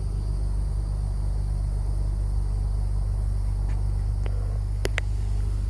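Maserati GranTurismo Sport's V8 engine idling steadily, with a few light clicks near the end.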